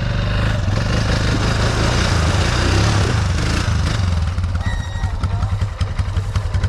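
ATV engine running, with a noisy surge for the first few seconds, then settling to idle with a rapid, even ticking. The spark plug has come loose.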